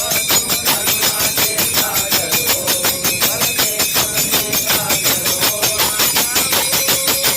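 Commuters' group singing over a fast, steady percussion beat of about four strokes a second.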